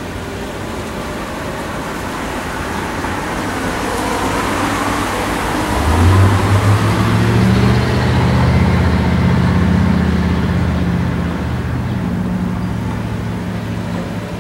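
A motor vehicle running, its engine and road noise swelling to the loudest point about six seconds in, where a low engine hum comes in, then easing off toward the end.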